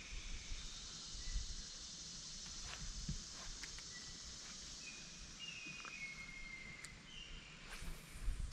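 Quiet riverside ambience: several short, thin bird calls over a steady high-pitched hiss and a low rumble, with a few soft low knocks near the end.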